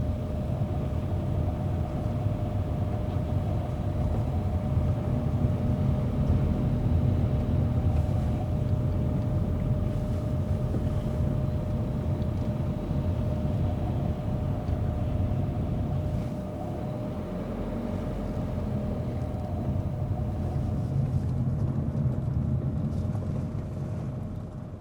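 A car driving at steady speed: continuous low road and engine rumble with a faint steady hum above it, fading out near the end.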